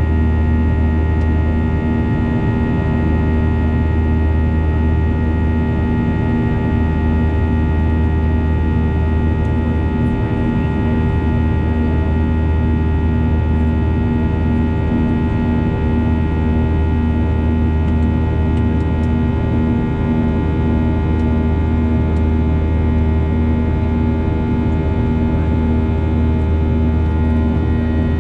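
Steady cabin noise of a Boeing 737-800 in flight: the drone of its CFM56 jet engines and airflow, a low hum with several steady tones over it, unchanging throughout.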